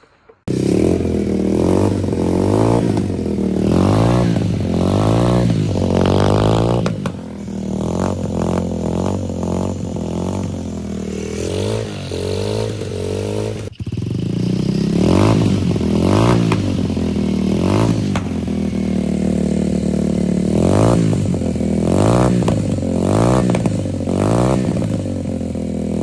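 Pit bike engine running on a newly fitted aftermarket carburettor, the throttle blipped over and over so the pitch rises and falls. It cuts in abruptly about half a second in and dips briefly about halfway through.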